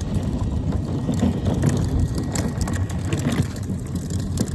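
Wheels rolling over rough pavement: a steady low rumble with scattered clicks and rattles.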